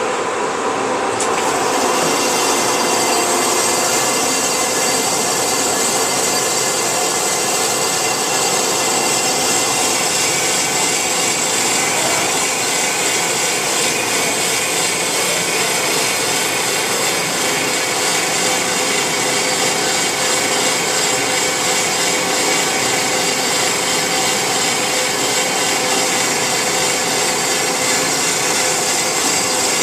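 Band saw running with its blade cutting a notch into a block, a steady sawing noise; the higher hiss of the cut joins about a second in as the blade bites.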